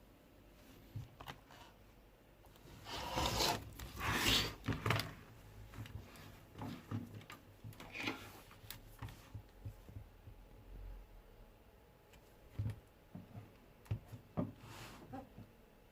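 Handling noises: rubbing and scraping with small knocks and clicks, loudest from about three to five seconds in, then scattered light taps.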